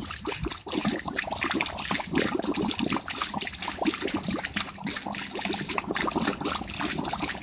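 Water trickling and splashing irregularly out of an air-conditioning condensate drain line being flushed.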